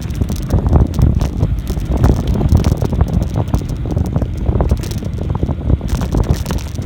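Heavy wind buffeting the microphone on a moving bicycle, a loud, irregular low rumble with scattered knocks and rattles from the ride.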